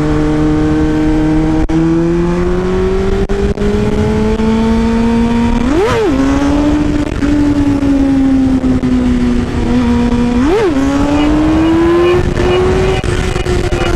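Suzuki GSX-R600 K5's inline-four engine under way, its pitch climbing slowly as the bike pulls, with two quick sharp revs about six and ten and a half seconds in, then easing off near the end. A steady rush of wind noise on the helmet microphone runs underneath.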